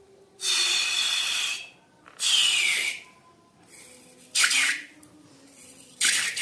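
Hissing spurts of air and contents forced out through a balloon's neck. Four spurts come about a second or less each, with pauses between, and some fall in pitch as the balloon empties.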